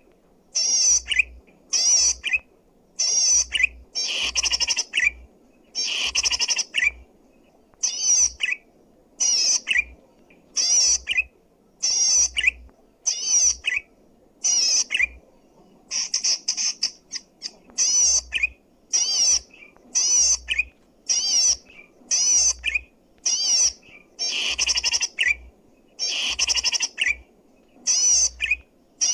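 Zitting cisticola (cici padi) singing persistently: short, high, fast-warbling phrases repeated about once a second, with brief gaps between them.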